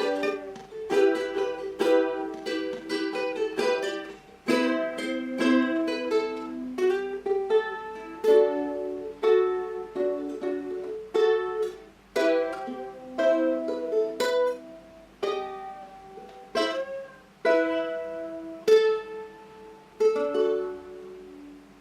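Solo ukulele playing the melody of a slow ballad, picked notes and chords ringing out one after another.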